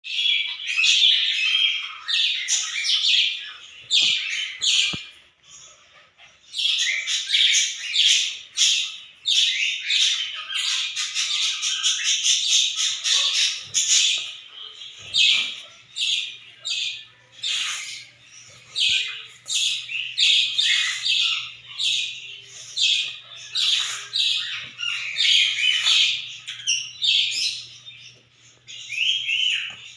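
Budgerigar chattering in a rapid, near-continuous stream of short chirps and squawks, with a brief lull about five seconds in.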